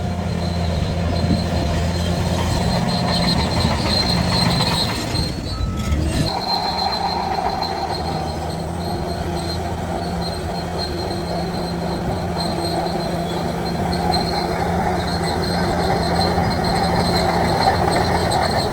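Shantui DH17C3 crawler bulldozer working: diesel engine running under load with its steel tracks squealing and clanking. About six seconds in, the low engine note drops back and a rougher mid-range rattle takes over.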